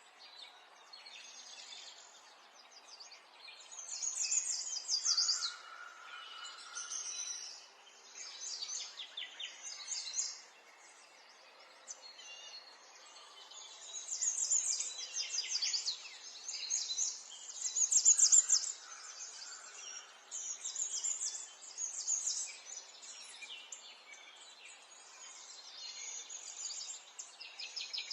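Songbirds chirping and singing in overlapping bouts of rapid high notes that come and go every few seconds, over a soft steady hiss of outdoor background noise.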